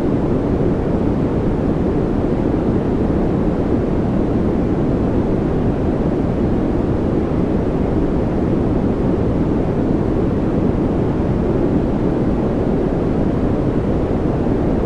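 Continuous white-noise track for focus and relaxation: a steady, unchanging deep rush with most of its weight low and only a little hiss.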